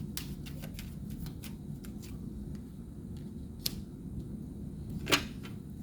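Tarot cards being handled and laid down: scattered light clicks and taps, with two sharper snaps about three and a half and five seconds in, over a low steady room hum.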